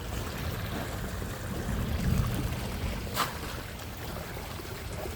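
Steady outdoor rumble of wind and sea water by the shore, swelling about two seconds in, with a single sharp click about three seconds in.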